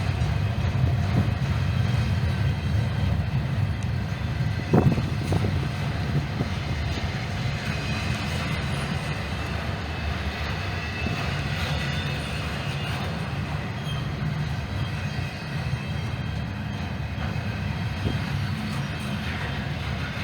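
Train rolling past on the rails, a steady low rumble with one sharp metallic clank about five seconds in.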